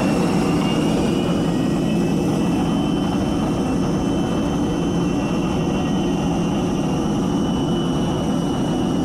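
Jet aircraft noise: a steady, loud rumble with several high whining tones held almost level above it.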